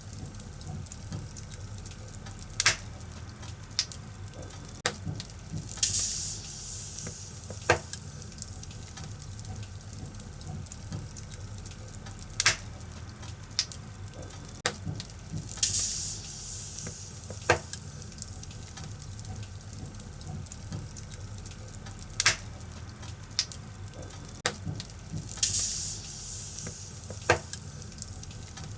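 Firewood burning in a fireplace: a steady crackle and hiss with sharp pops every few seconds, and three short rushes of high hissing.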